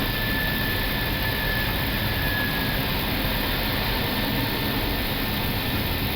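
Steady rushing noise on an Airbus A320neo flight deck in the initial climb after takeoff: airflow and engine noise. A faint high whine fades out about three seconds in.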